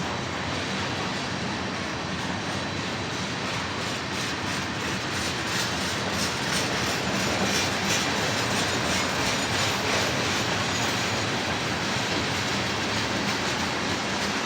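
Mixed freight train's cars rolling past, the steel wheels rumbling steadily and clicking over the rail joints, slightly louder around the middle.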